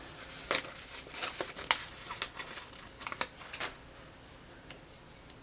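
Paper and sticker sheets being handled: a string of light crinkles and sharp ticks, thinning out after about four seconds.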